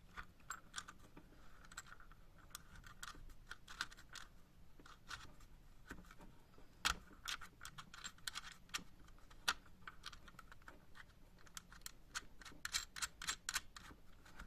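Irregular small clicks and taps of hard plastic parts of a hot air soldering station being handled and fitted together, with a louder knock about seven seconds in and a quick run of clicks near the end.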